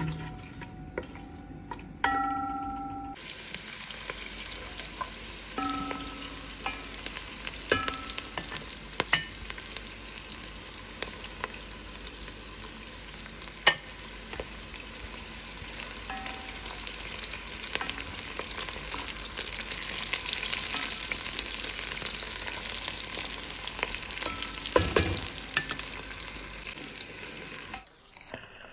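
Food frying in hot oil in a cooking pot: a sizzling hiss that starts suddenly about three seconds in. A spoon stirs and knocks against the pot, with a few short metallic rings, and the sound cuts off abruptly near the end.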